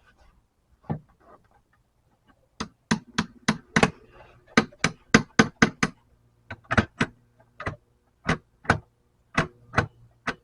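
Rapid metal-on-metal tapping from lead-sinker casting tools: about two dozen sharp knocks in quick runs, a few leaving a faint ring.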